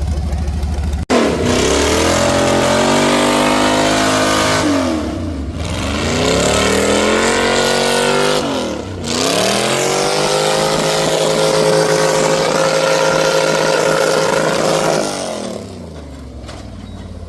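A truck engine accelerating hard, its revs climbing, dropping sharply and climbing again twice as it shifts up through the gears. It then holds at high revs for several seconds before easing off near the end.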